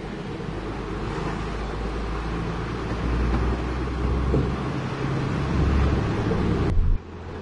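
Heavy diesel engine of the truck or earthmoving machinery running, working harder and louder from about three seconds in. It cuts off abruptly near the end, and a quieter engine sound follows.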